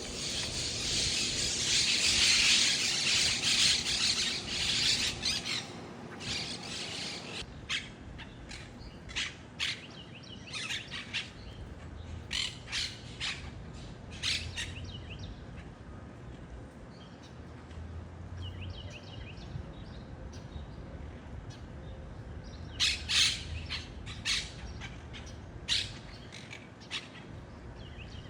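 Flock of wild monk parakeets squawking: a dense burst of overlapping chattering calls for the first few seconds, then single harsh squawks scattered through the rest, with a quick run of them near the end.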